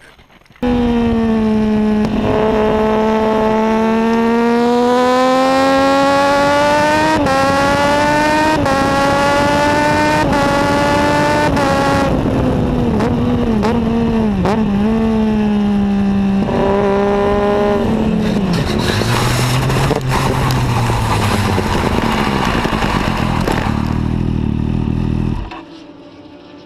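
Motorcycle engine accelerating hard through several gear changes, its pitch climbing and then dropping back at each upshift. Later the revs waver and fall as the bike slows, with a rush of noise, and the sound cuts off suddenly near the end.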